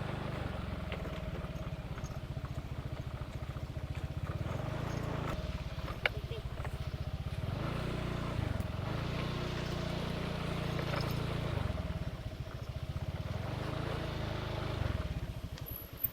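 A small engine running with a steady low hum that swells and eases a couple of times, then fades out at the end.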